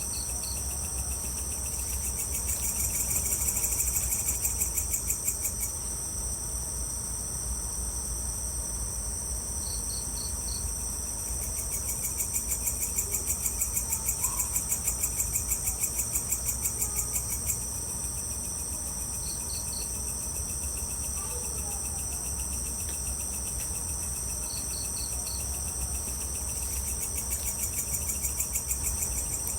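Evening insect chorus: a continuous high-pitched cricket trill that swells three times into louder, rapid pulsing, with short runs of three or four chirps every several seconds, over a low steady rumble.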